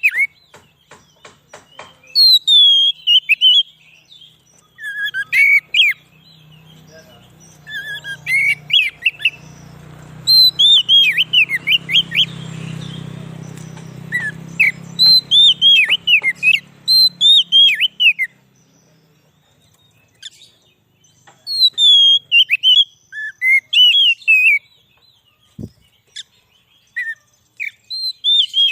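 Oriental magpie-robin (kacer) singing: phrases of loud, quick whistled notes that each slide downward, repeated in runs with pauses between them. A low rumble sits under the song for a while in the middle.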